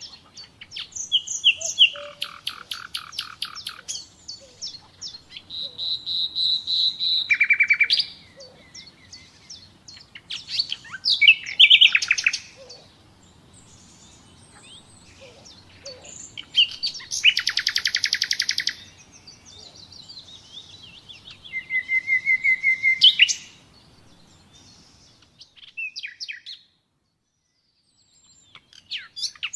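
Common nightingale singing: a run of varied phrases made of fast repeated notes, rapid trills and clear drawn-out whistles, with short pauses between them. The song stops for a couple of seconds near the end before one last phrase.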